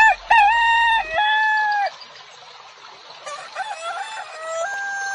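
Rooster crowing: one loud crow in the first two seconds, then a second, fainter crow in the last couple of seconds.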